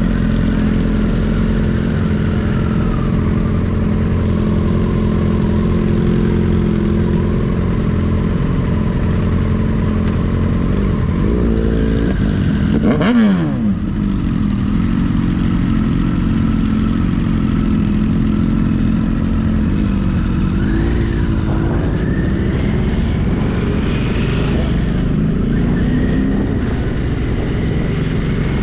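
Motorcycle engine running steadily while riding along, with the pitch rising a couple of times in the second half as it accelerates. About halfway through, a brief louder sound with a sharply falling pitch passes by.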